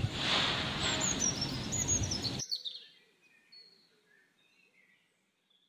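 A bird singing a quick series of high chirps over outdoor background noise with a low rumble. The sound cuts off abruptly about two and a half seconds in, leaving only faint chirps.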